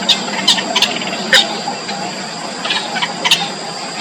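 Yellow bittern chicks in the nest calling: short, sharp, high chirps, about seven in four seconds, irregularly spaced. Beneath them runs a steady high whine.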